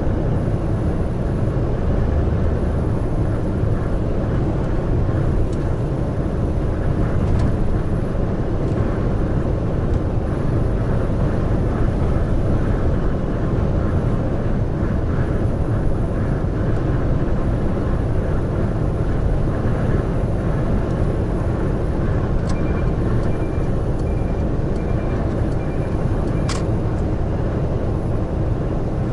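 Heavy truck driving at highway speed: a steady rumble of engine and tyre noise, with a few faint clicks and a short run of faint, evenly spaced beeps near the end.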